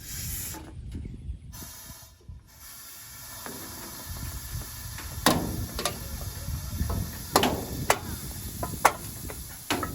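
Air hissing out of a truck's air-bag suspension as the valves are opened, with aluminium pop cans crackling under the settling weight: several sharp cracks from about halfway on.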